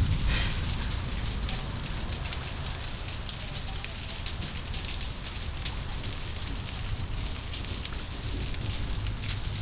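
Steady rain falling, a dense patter of drops, with the tail of a thunderclap dying away in the first second.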